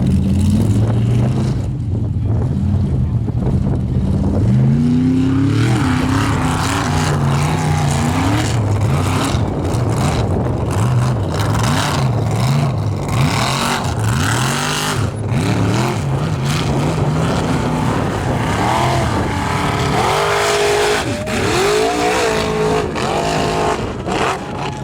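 Formula offroad hillclimb truck's engine revving hard, its pitch rising and falling again and again as the throttle is worked, with a rushing noise from about five seconds in.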